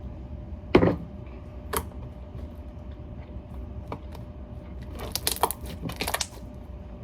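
Slime being mixed by hand in a container: one sharp knock about a second in, a lighter one soon after, then a run of crackling, popping clicks between five and six seconds in.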